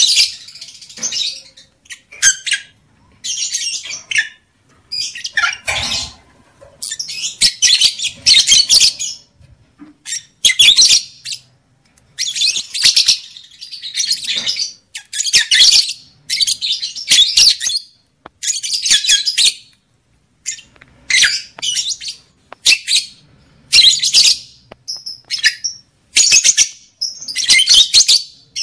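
Lovebird chattering in repeated short bursts of high-pitched chirps, about every second or two, with brief silent gaps between them. These are breeding-trigger calls, played to lovebirds to stir the male and bring the female into heat.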